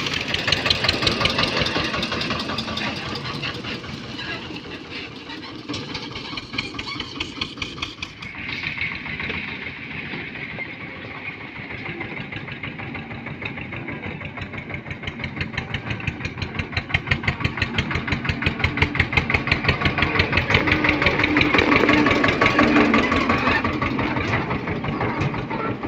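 Eicher 242 tractor's diesel engine running with a steady, even beat of firing pulses, getting louder about two-thirds of the way through and then easing a little.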